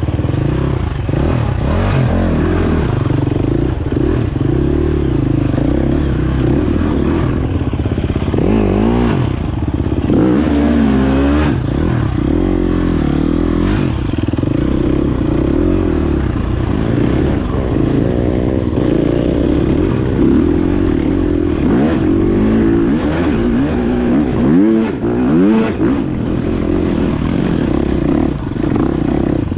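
Dirt bike engine being ridden, revving up and dropping back again and again as the throttle opens and closes.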